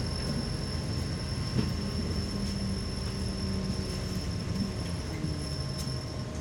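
Cabin noise inside a moving route bus: steady engine and road rumble, with a faint, steady high whine.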